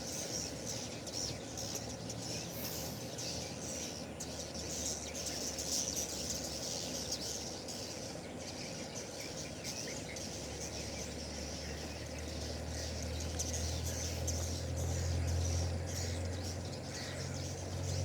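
Swiftlets twittering, a dense run of high chirps without a break. A low steady hum, like an engine, comes in about ten seconds in and grows louder.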